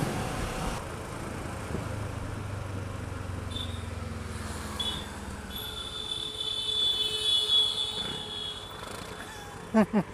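Motorcycle engine running steadily under way, with road and traffic noise. A high steady whine joins in for about three seconds after the middle.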